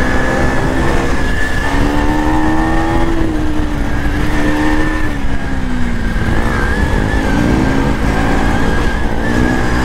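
KTM 250 single-cylinder motorcycle engine running hard under way, its revs climbing, dropping back about halfway through and climbing again, over a constant deep rumble of rushing air.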